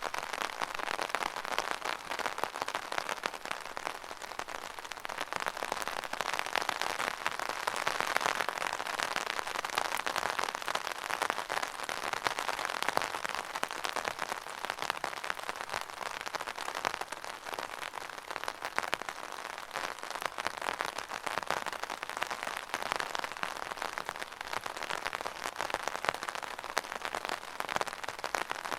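Steady rain falling, an even hiss made of many close drop patters, swelling and easing slightly.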